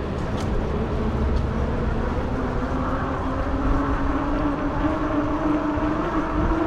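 Fat tire e-bike riding along: a steady hum that rises slowly in pitch as it picks up speed, over wind rumble on the microphone.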